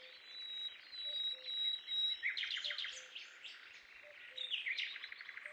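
Wild birds singing: a high, thin trilling note at first, then quick series of sharp chirps from about two seconds in, cutting off suddenly at the end.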